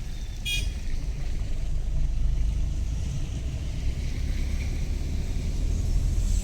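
Steady low rumble of a moving road vehicle in traffic, with wind buffeting the microphone. About half a second in there is one short, high beep.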